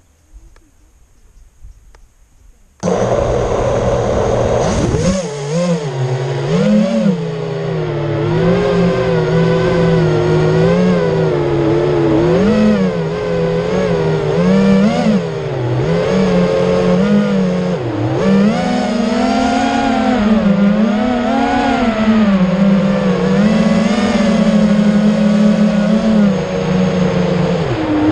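FPV quadcopter's motors start up suddenly about three seconds in after a quiet start, then run with a buzzing whine whose pitch keeps rising and falling with the throttle.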